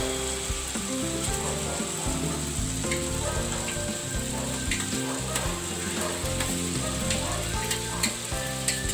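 Spice masala sizzling as it fries in oil in a metal wok, with a few light knocks as boiled jackfruit pieces are tipped in from a bowl. Background music plays over it.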